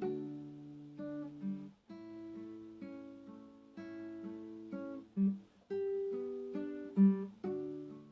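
Acoustic guitar playing slowly, plucked and lightly strummed chords whose notes ring and fade, with two brief louder low notes about five and seven seconds in.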